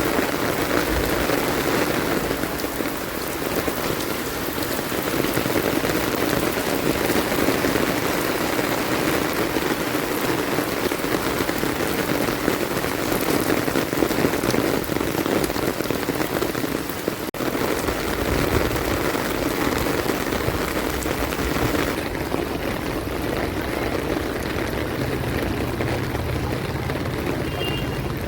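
Steady rain falling on surfaces, a dense, even hiss of drops. About seventeen seconds in the sound drops out for an instant, and after that a low rumble runs under the rain.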